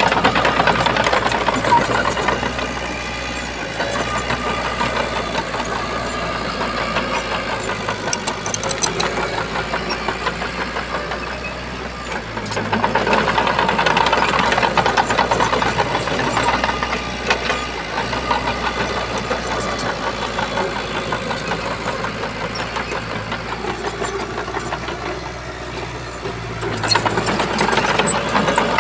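Shantui bulldozer's diesel engine running steadily, swelling louder under load near the start, around the middle, and again near the end.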